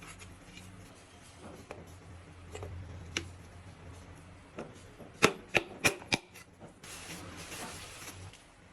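Sharp knocks, four in quick succession about five seconds in, then a hiss lasting about a second and a half, over a low steady hum and a few faint clicks.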